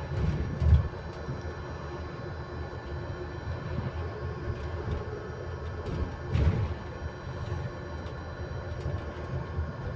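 Inside a moving electric bus: a steady, constant-pitch electrical whine of several held tones over low road rumble, with a low thump about half a second in and another about six and a half seconds in.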